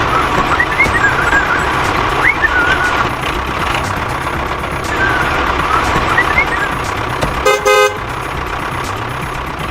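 Truck engine running steadily, with high chirps over it, and one short horn toot about seven and a half seconds in, which is the loudest sound.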